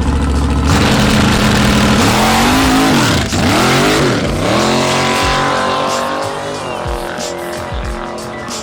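Drag race car idling briefly, then launching and accelerating hard down the strip. The engine note climbs and drops sharply at each of about three gear shifts, then fades as the car pulls away.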